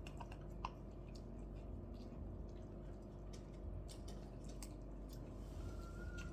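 Quiet eating sounds: soft chewing and squelching with scattered small clicks, over a steady low hum.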